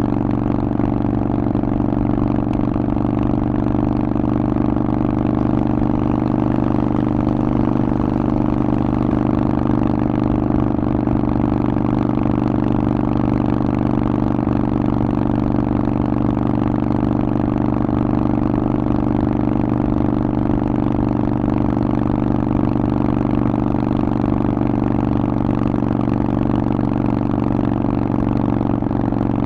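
Harley-Davidson Forty-Eight's air-cooled 1200 cc V-twin running through a Vance & Hines exhaust at a steady engine speed, its pitch holding constant.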